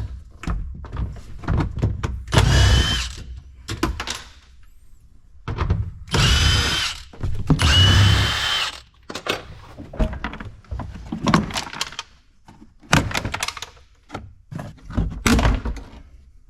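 A handheld power tool whirring in three short bursts of a second or so, with knocks and clunks of metal and plastic parts between them.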